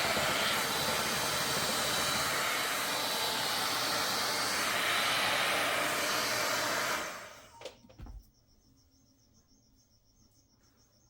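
3-in-1 hot-air styling brush (hair dryer brush) blowing steadily, then switched off about seven seconds in, its airflow dying away. A click and a soft knock follow, then only a faint, steady high-pitched trill.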